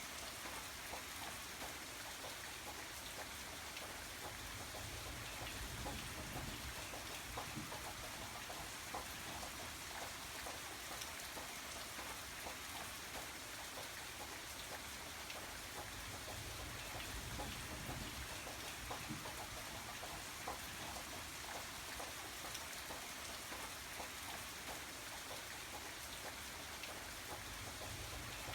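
Steady rain falling, with many small drop ticks and a low rumble that swells and fades now and then.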